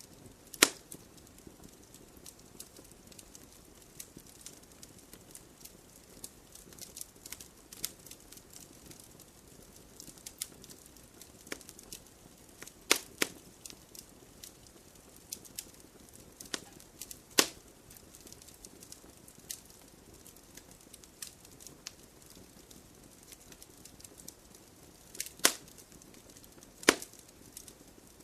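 Wood campfire crackling: a steady scatter of small snaps with a handful of louder, sharp pops spread through it.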